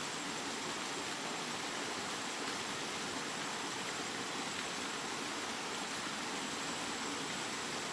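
Steady, continuous rain: an even hiss with no separate drops, thunder or change in intensity.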